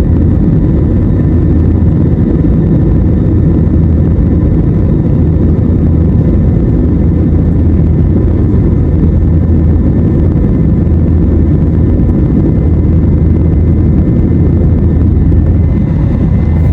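Steady, loud low rumble of vehicle engine noise, unchanging throughout, with faint steady tones above it.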